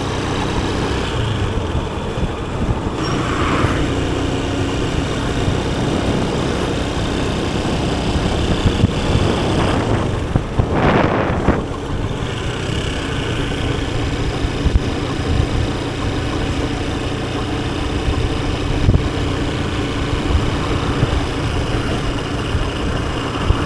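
Motorcycle engine running steadily under way, with road and wind noise. About halfway through, another vehicle passes close by, swelling up and dying away.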